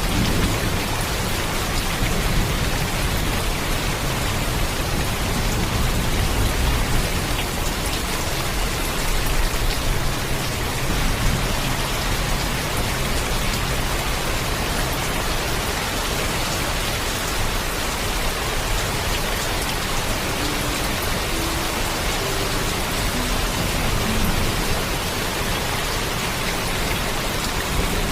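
Steady heavy rain, an even dense hiss of drops falling on surfaces. A low rumble runs beneath it through roughly the first half and then eases off.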